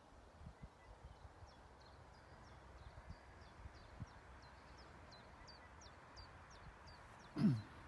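Faint small-bird chirping, one short high note repeated about three times a second, over a low rumble. Near the end comes one brief, loud call that falls steeply in pitch.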